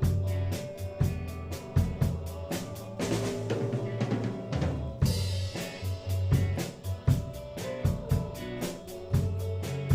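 A band playing a song on drum kit, bass and guitar, the drums keeping a steady beat of hi-hat, bass drum and snare. For about two seconds in the middle the hi-hat drops out, then the full beat comes back in with a cymbal.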